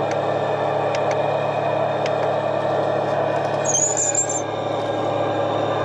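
The 1/10 scale RC DT-75 bulldozer model running while standing still, after being started up: a steady, engine-like idling drone with a faint tick about once a second and a brief high chirp near the middle.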